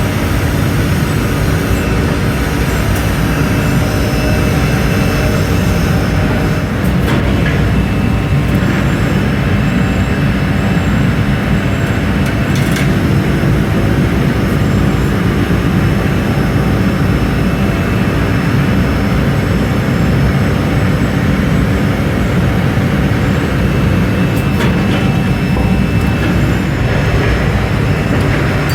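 Steady, loud machinery drone in a factory, with a few faint knocks.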